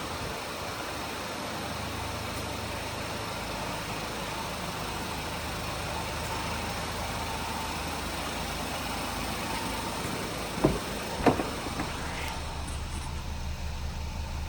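Ford 1.0-litre three-cylinder EcoBoost engine idling steadily, with two sharp clicks about eleven seconds in.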